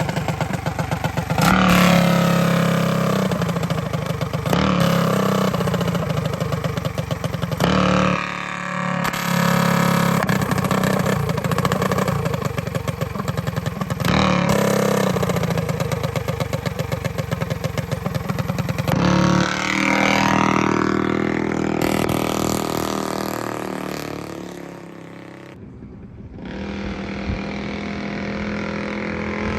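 212cc single-cylinder small engine running and being revved up and down over and over. About three-quarters of the way through it drops away almost to nothing, then settles into a steadier, lower running.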